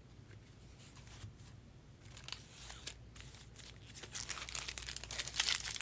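Foil trading-card pack wrappers being torn open and crinkled by hand. It is faint at first, then the crackle and tearing pick up and get louder over the last couple of seconds.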